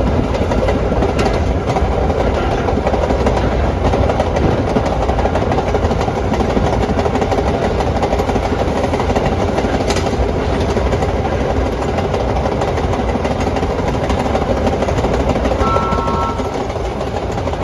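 Vintage R1/9 "Arnine" subway train running along the track with a steady loud rumble and rail noise, and one sharp click about ten seconds in. A few short steady tones sound near the end.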